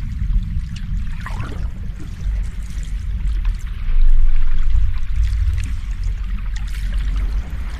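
Sea waves washing in, a steady low surf rumble with fizzing, trickling water on top, swelling louder about four seconds in.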